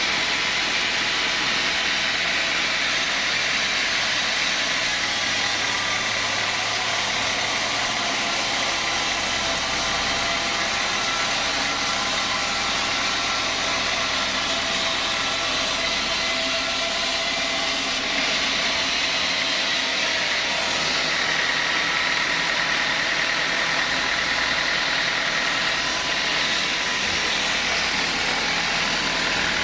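Sawmill machinery running steadily, its motor and saw giving a continuous hum with several steady whining tones.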